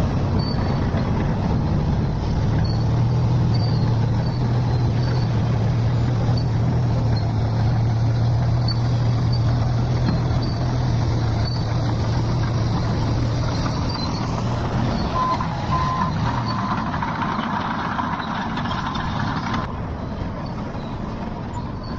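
A heavy vehicle's engine running with a steady low hum. About two-thirds of the way through, a beeping tone starts, first in short beeps and then held, before stopping near the end.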